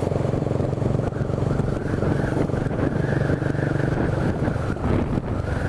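Honda CB 300's single-cylinder engine running at a steady pace while riding.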